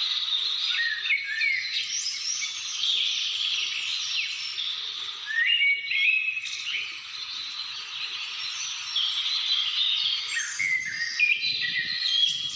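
Many birds calling and singing at once in a dense, continuous chorus. Clearer whistled phrases stand out three times, around the start, the middle and near the end.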